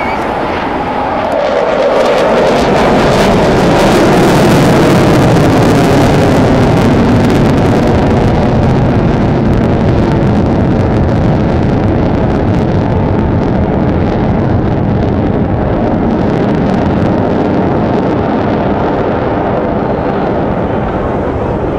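F-22 Raptor jet fighter passing by. Its pitch falls over the first few seconds, then it becomes a loud, crackling jet roar that slowly fades as it moves away.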